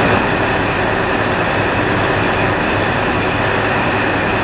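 Steady hum and hiss of a 485-series electric train car standing idle, with its onboard equipment running.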